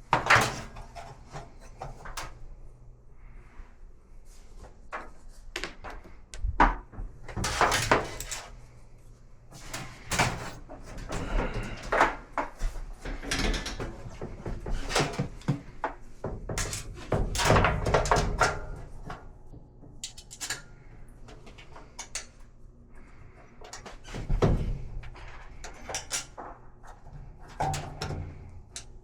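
Irregular knocks, clicks and clatter of hands and tools working on the cabinet and parts of an older top-load washer, with short bursts of handling noise spread unevenly throughout.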